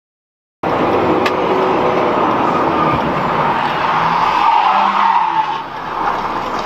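Car tires skidding with loud road noise. It starts abruptly about half a second in, with a sharp click soon after, and swells for a moment before easing near the end.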